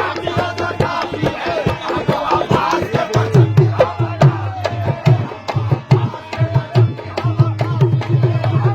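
Qawwali music: a hand drum plays a fast, dense rhythm under a bending melody line.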